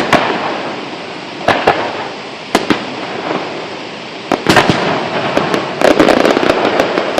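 Aerial fireworks bursting: a few separate booms in the first seconds, then a dense run of rapid bangs and crackles from about four and a half seconds in.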